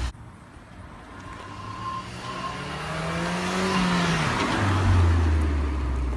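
A car engine slowly rising in pitch and loudness over a few seconds, then dropping back, followed by a steady low rumble.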